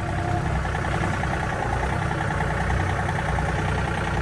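Vehicle engine running at a steady speed, a low rumble with a fast, even pulse.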